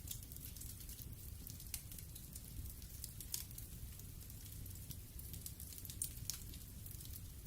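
Wood fire burning in a fireplace: a steady low rumble of the flames with scattered sharp crackles and pops of the burning wood, a few louder ones standing out.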